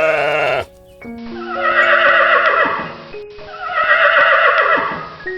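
Animal bleating: the tail of one bleat ends about half a second in, then two long wavering bleats of about two seconds each, falling in pitch at the end. Background music with held notes plays underneath.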